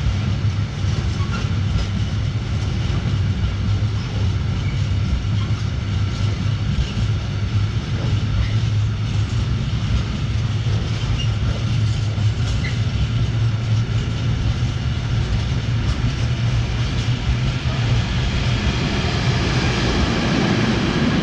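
Freight train of railway tank wagons rolling past: a steady rumble of steel wheels on the rails.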